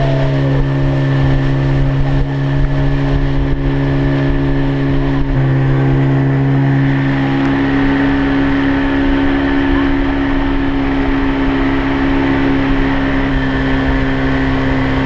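Outboard motor of a small boat running at a steady speed, its note shifting slightly about five seconds in.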